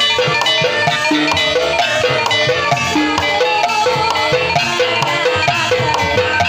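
Javanese gamelan-style music for a kuda kepang (ebeg) dance: a quick, even run of tuned mallet-struck notes over steady hand-drum strokes.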